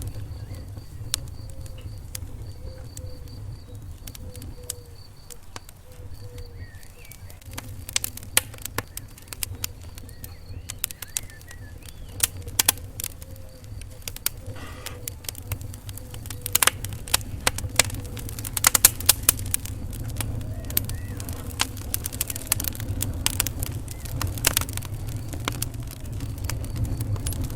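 Wood fire burning in a fireplace: a steady low rumble of flames with sharp crackles and pops. The pops are sparse at first and come thick and fast from about eight seconds in.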